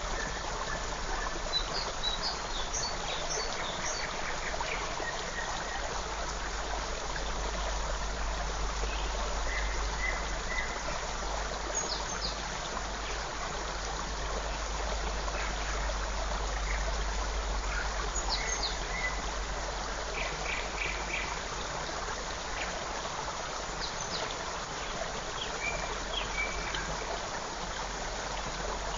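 Small forest creek running and splashing in a steady rush, with scattered short, high bird chirps over it.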